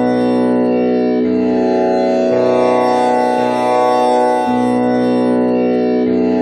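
Tanpura drone tuned to B with a string on komal Ni, its strings plucked in turn, a new string sounding about every second and each note ringing on into the next with a dense, bright spread of overtones.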